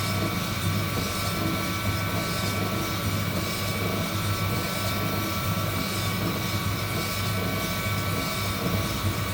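Heat gun blowing hot air steadily over roasting coffee beans: an even rush of air with a constant motor whine and a low hum.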